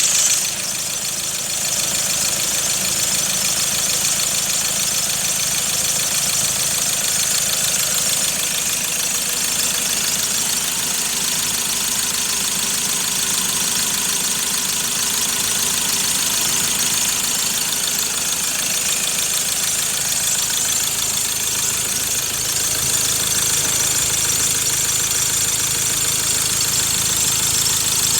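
Mazda BT-50 2.2-litre four-cylinder turbo-diesel engine idling steadily, a little louder for a moment at the start.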